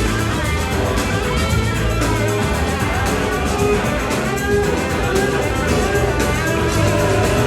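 Blues-rock band playing live: electric guitars over bass and a drum kit, at a steady level.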